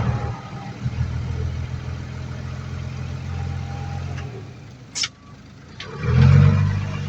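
Heavy diesel engine of earthmoving equipment running steadily, fading for a moment, then coming back louder near the end. A short sharp click about five seconds in.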